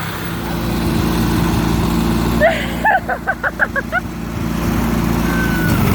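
Small gasoline engine of a riding lawnmower running steadily. About two and a half seconds in, a person's voice cuts in with a quick run of short bursts.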